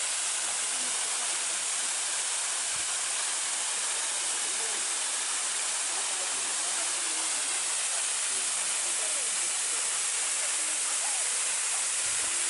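Waterfall: a steady, even rush of falling water, heavy in the upper range, unchanging throughout.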